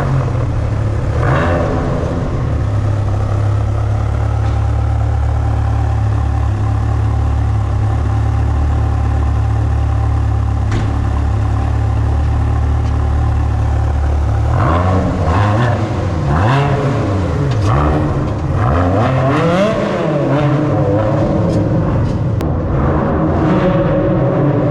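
Ferrari 360 Spider's 3.6-litre V8 idling steadily just after starting. About fifteen seconds in, it is revved in a run of quick blips, the pitch rising and falling several times.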